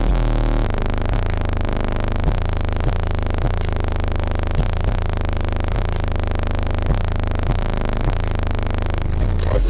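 Car audio system playing bass-heavy music very loud during a demo. Deep, steady bass notes with a beat about every 0.6 s overload the microphone into a buzzing, distorted sound, and the music turns brighter near the end.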